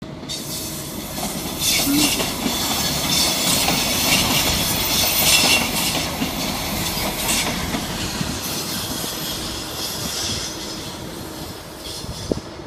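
SBB fire-fighting and rescue train rolling past over yard tracks and points, its wheels clattering with a high hiss from the rails. The sound is loudest as it passes close, then slowly fades as it moves away.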